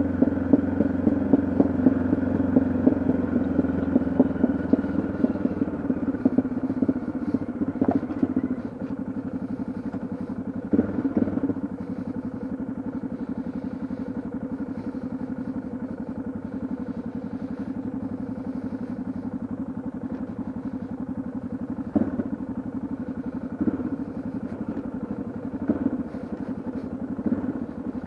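Yamaha XT660Z Ténéré single-cylinder engine running under way on the road, pulling harder for the first eight seconds or so and then easing off to a steadier, quieter run, with a few brief knocks along the way.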